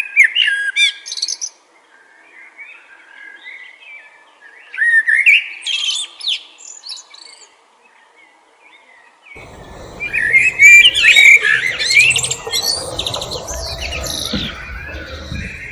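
Sabiá-preta thrush singing in short phrases of quick, varied whistled notes, with pauses between them. From about nine and a half seconds in, the song becomes denser and more tangled, over a low rumbling noise.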